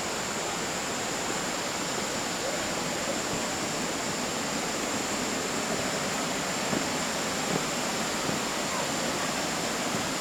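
Steady rush of flowing water, a shallow stream running through the water forest, with a faint constant high whine over it.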